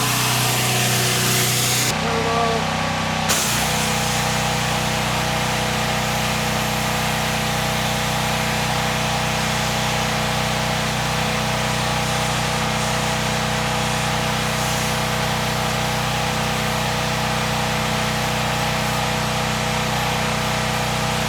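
Pressure washer running with its engine drone under the hiss of the water jet spraying. The spray stops briefly about two seconds in and starts again about a second later.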